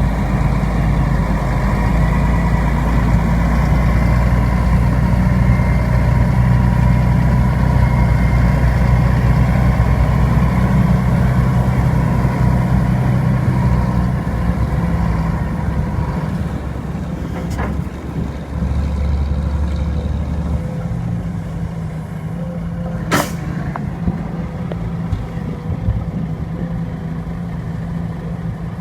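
Heavy diesel machinery, an excavator and ten-wheel dump trucks, running hard, loud at first, then easing down to a lower steady run about two-thirds of the way through. A single short, sharp sound cuts in about four-fifths of the way through.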